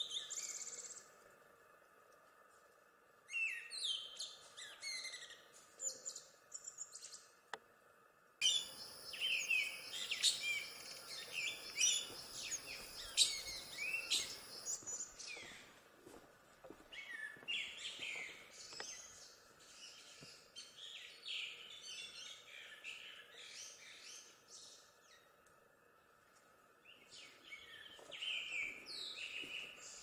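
Small birds chirping in quick clusters of short, high calls, with quiet gaps of a second or two between bursts.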